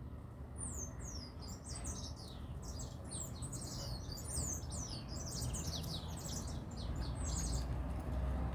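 Small birds calling in a dense, chattering flock: many short, high-pitched chirps that slide downward in pitch, overlapping rapidly. A steady low rumble runs underneath.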